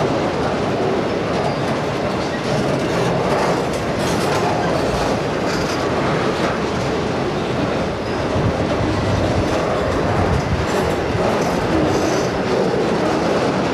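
Freight train of autorack cars rolling past close by: a steady, loud rumble and rattle of steel wheels on the rails.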